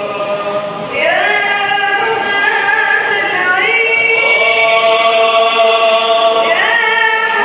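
An Arabic devotional nasheed being sung. The voice holds long, drawn-out notes and slides up into each new pitch a few times.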